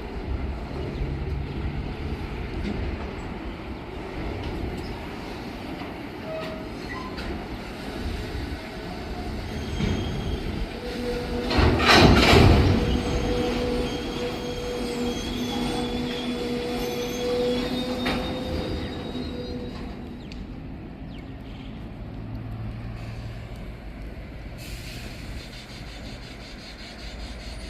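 Freight train rolling across a bridge: a steady rumble and clatter of wagons, with a loud burst of clanking about twelve seconds in and steady wheel squeal for several seconds after it, easing to a quieter rumble near the end.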